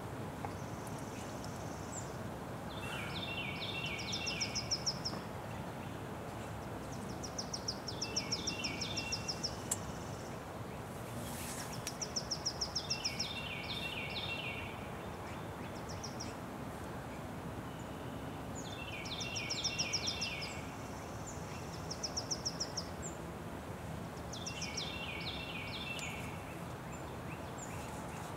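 A bird singing the same short phrase, a fast trill of high notes with a lower cluster of notes, about every four seconds over a steady background hiss.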